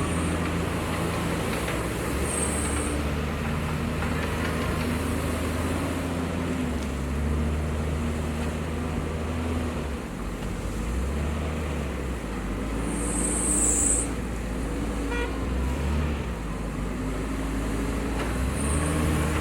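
Diesel engine of heavy earthmoving machinery running under load, its revs rising and falling again and again. Brief high-pitched squeals come a few times.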